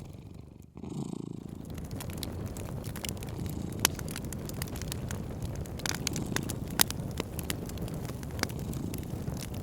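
Cat purring steadily in a low rumble, with scattered sharp crackles and pops of a wood fire. The sound fades out briefly under a second in, then resumes.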